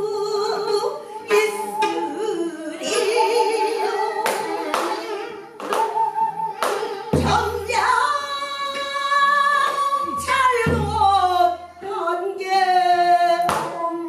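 Korean pansori performance: long held, wavering melodic notes over sharp strokes of the buk barrel drum at irregular intervals.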